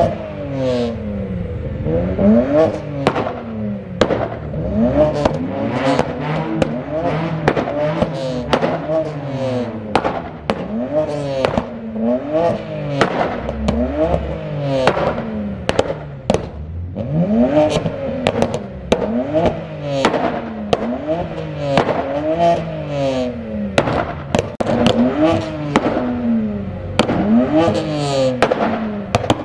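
Car engine revved over and over, its pitch climbing and dropping about once a second, with the exhaust cracking and popping in sharp bangs between the revs.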